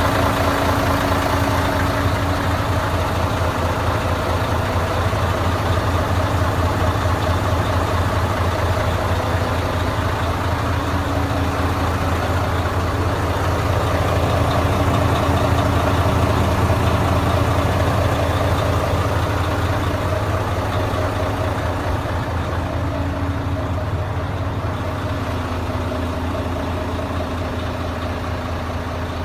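Mercedes-Benz 1841 truck's diesel engine idling steadily, an even low rumble that eases off slightly in the last third.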